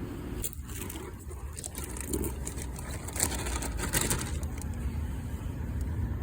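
A car driving: a steady low rumble of engine and road noise, with a few brief sharp clicks about three and four seconds in.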